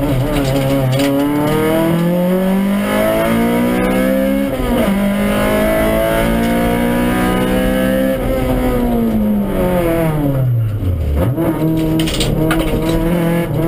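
Honda Civic rally car's four-cylinder engine, heard from inside the cabin, revving hard up through the gears, with a sharp drop in revs at a shift about four and a half seconds in. After about eight seconds the revs fall away for a few seconds as the car slows, then climb again near the end.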